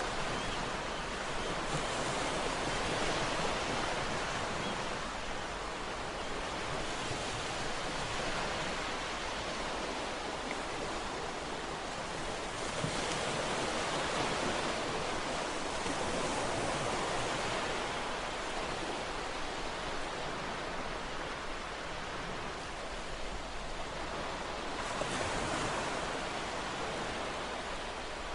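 Ocean waves washing on a shore: a steady rush of surf that swells and eases every few seconds.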